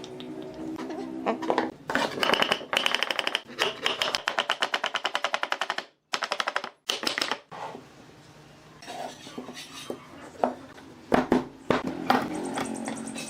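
A fast, even run of sharp mechanical clicks, about eight a second, lasting a few seconds, then scattered knocks and clatter of workshop tools on wood.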